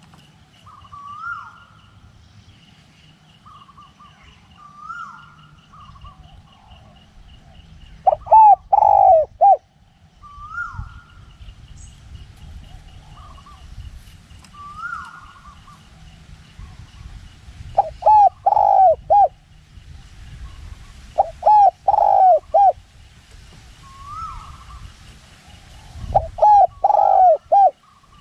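Spotted dove cooing: four loud phrases of three or four notes each, spaced several seconds apart. Between them a fainter, higher short call from another bird repeats every two to three seconds, over a faint steady high-pitched whine.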